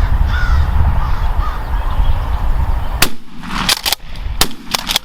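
A shotgun shot about three seconds in, followed by several more sharp cracks and knocks, as the hunter fires on a gobbler. Before the shot there is a low rumble with faint bird calls.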